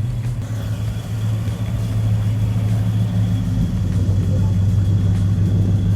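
A car engine idling steadily close by, a low, even engine note with no revving.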